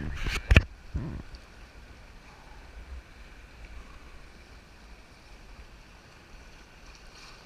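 Whitewater river rushing steadily around a raft. A few sharp thumps come in the first second or so.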